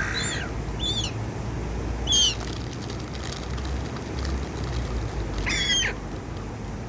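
Gulls calling: a handful of short, high, harsh calls, one of the loudest about two seconds in and a longer call around five and a half seconds in, over a steady low rumble.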